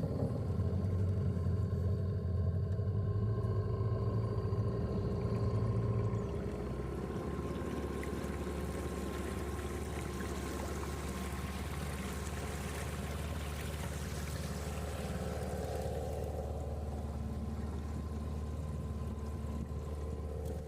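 A small boat's motor running, with water rushing past; about six seconds in the engine drops back to a lower, quieter, steady run.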